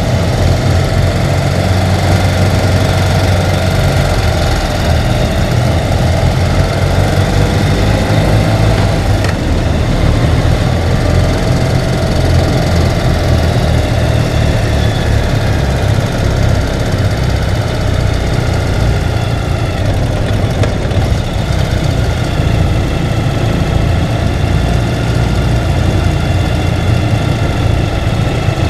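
Ural sidecar motorcycle's flat-twin engine running steadily, its pitch drifting slowly up and down.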